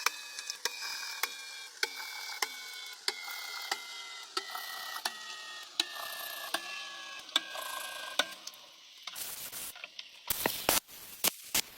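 Metalworking machine running with a steady whine that slowly falls in pitch, together with regular sharp ticks about every 0.6 seconds that gradually spread apart. It stops about eight seconds in, followed by a few loud knocks and clatter.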